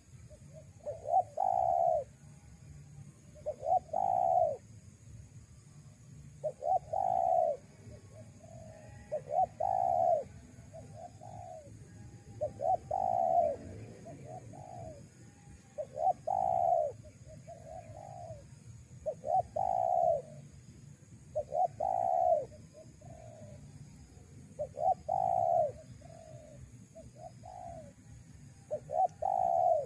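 Spotted dove (tekukur) cooing: a short phrase of a few coo notes repeated about every three seconds.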